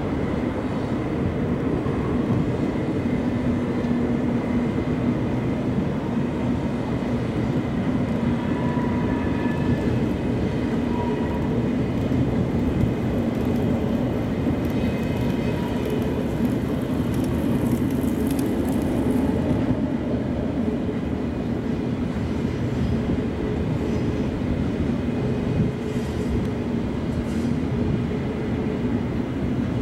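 ICE train rolling across a steel truss railway bridge: a steady rumble of wheels on the rails, with an even low hum throughout and a light high hiss around the middle.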